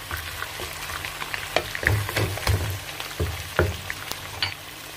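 Chicken pieces with chopped onion and garlic sizzling in a pot over low heat, with a wooden spoon stirring and knocking against the pot several times in the middle.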